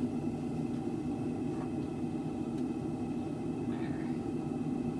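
A steady low roar of running equipment in a workshop, with a faint hum and a few faint light clicks; no hammer blows.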